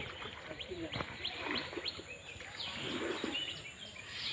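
Small birds chirping, a string of short high chirps that sweep downward, over faint voices.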